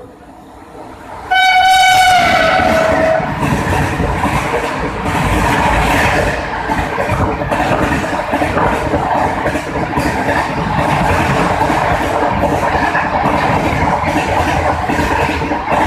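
Indian Railways train sounding its horn about a second in, a loud two-second blast that drops in pitch at the end, then the train running past with a steady rumble and the clatter of its wheels on the rails.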